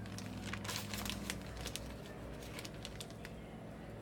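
Ground coffee being spooned into an espresso machine's filter basket: scattered light clicks, taps and scrapes, busiest in the first second and a half, over a steady low hum.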